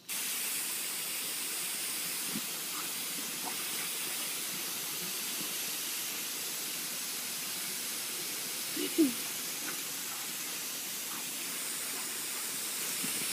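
Steady hiss of water spraying from a garden hose nozzle, starting abruptly when the water is turned on. A short voice-like sound rises over it about nine seconds in.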